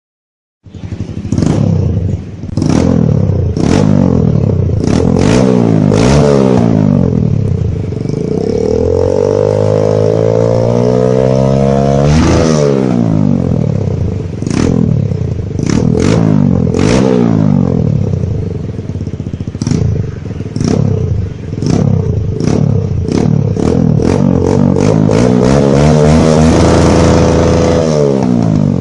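Kawasaki D-Tracker single-cylinder engine breathing through a Norifumi Rocket 4 full-system aftermarket exhaust, free-revved in repeated throttle blips with short sharp cracks between them. There is one longer climb in revs midway and a high rev held briefly near the end.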